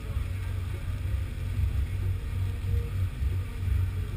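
A 2012 Ford Mustang's 5.0 Coyote V8 idling with the car standing still: a steady, uneven low rumble.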